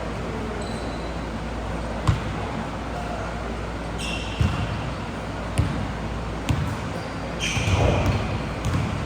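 Basketball bouncing on a gym court during play: a handful of separate bounces a second or so apart, with short high squeaks of sneakers on the hardwood, the longest near the end.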